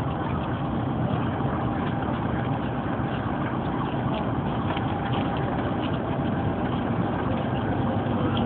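Steady low rumble of a train at the station, with faint rattling over it.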